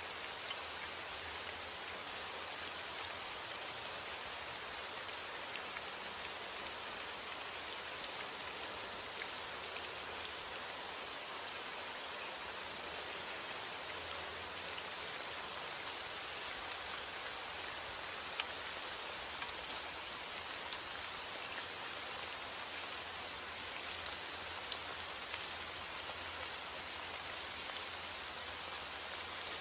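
Steady heavy rain falling, an even hiss with scattered sharper drop ticks.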